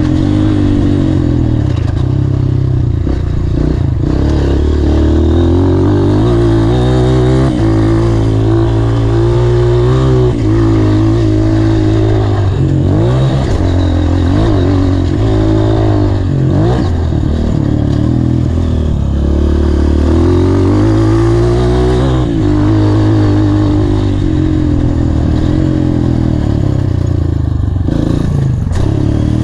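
Honda CRF230 dirt bike's single-cylinder four-stroke engine being ridden hard, its pitch repeatedly rising and falling with throttle and gear changes.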